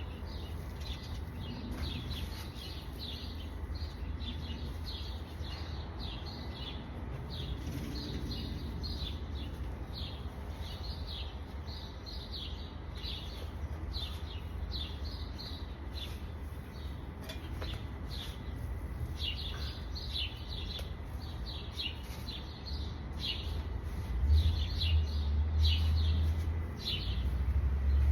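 Songbirds chirping and twittering, many short high calls coming in quick runs throughout, over a low rumble that swells near the end.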